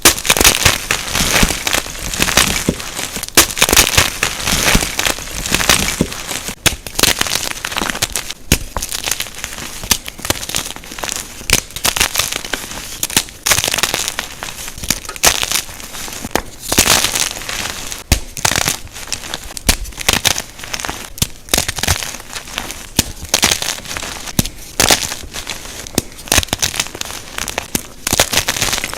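Blocks of gym chalk (magnesium carbonate) being crushed by hand, a dense run of crunching and crumbling with many sharp crackles and soft powdery rustles between them.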